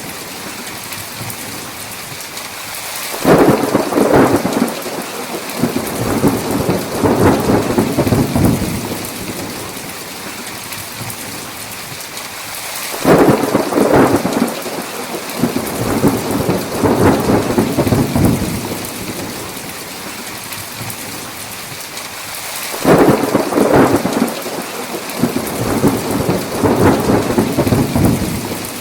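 Steady heavy rain with three rolls of thunder about ten seconds apart, each starting suddenly and rumbling on for about five seconds.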